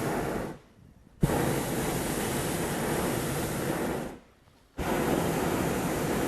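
Steady rushing noise that cuts out abruptly twice for about half a second, with a sharp click as it comes back the first time.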